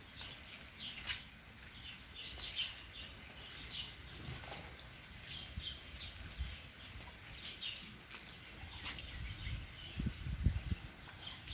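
Birds chirping in many short, repeated calls, with a few sharp clicks. Low rumbling comes in near the end.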